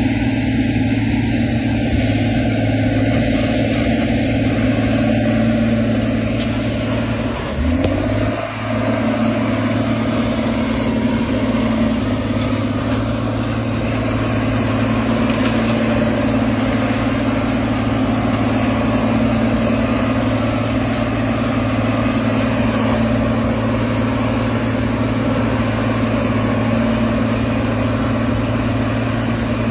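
A heavy vehicle's engine running steadily, its pitch briefly dropping and coming back up about eight seconds in.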